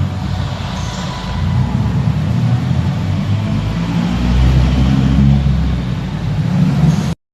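Car engine and exhaust running with a deep rumble that swells about four seconds in, then cuts off suddenly near the end.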